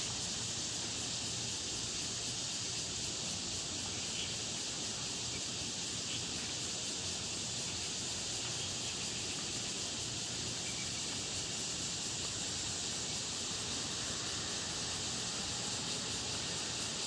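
Steady outdoor background hiss with no distinct events, with a couple of faint short chirps about four and five seconds in.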